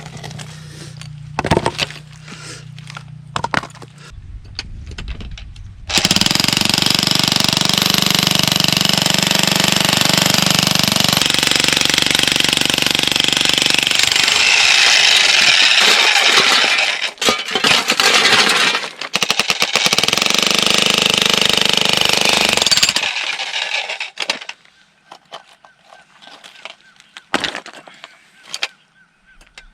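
Jackhammer breaking stone: a few knocks, then the hammer runs loud and steady for about seventeen seconds, stopping a few seconds before the end.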